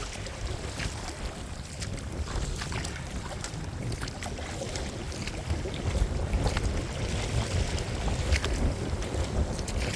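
Wind buffeting the microphone in a heavy uneven rumble, with scattered splashes and slaps of choppy waves against a small Old Town Vapor 10 kayak as it rides them.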